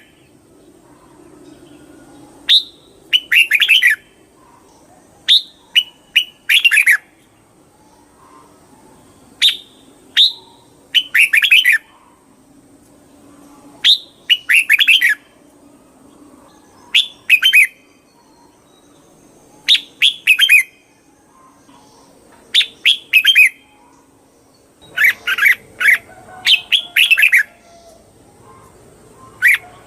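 Red-whiskered bulbul singing: short, bright, warbled phrases repeated every two to three seconds, with a longer run of phrases a little before the end.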